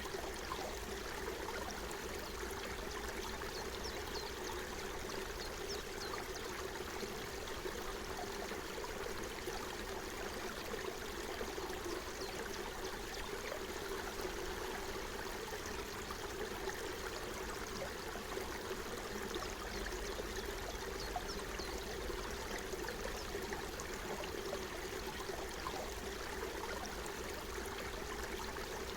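Forest stream running steadily, with many small splashes and trickles over the constant flow.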